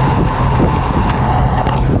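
Exhaust of a 1997 Ford F-150's 4.6L Triton V8, fitted with short equal-length headers and an aftermarket setup behind the stock catalytic converters, running steadily and loud.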